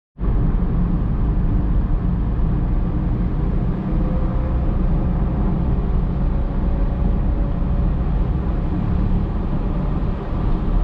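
Car driving, with a steady low engine and road rumble heard from inside the cabin. It cuts in abruptly at the start.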